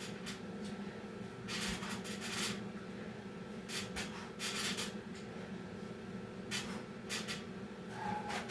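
Several short bursts of rustling and shuffling from a person moving about, over a steady low hum.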